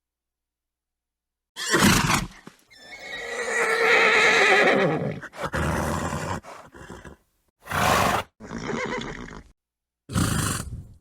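Horses neighing and snorting: a short snort, then a long whinny with a wavering pitch, followed by several shorter snorts and calls, each cut off into dead silence.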